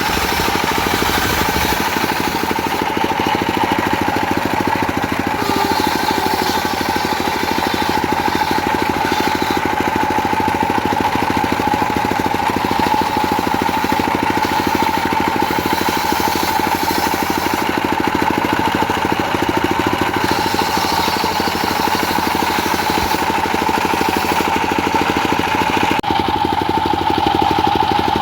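Diesel engine driving a homemade circular sawmill, running steadily with a rapid even pulse and a steady high tone over it, the upper hiss changing every few seconds.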